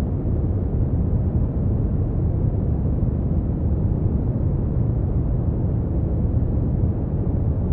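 Steady brown noise: an even, deep rumbling hiss weighted toward the low end, with little above the upper mids and no change throughout.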